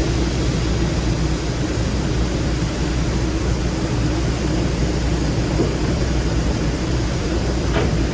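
Steady machinery running: a low hum under an even hiss, with no change.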